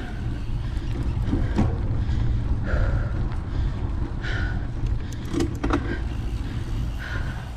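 Mountain bike ride noise: a steady low rumble of wind and tyres on the trail, with sharp clicks and rattles from the bike going over rough ground, about one and a half seconds in and again around five and a half seconds.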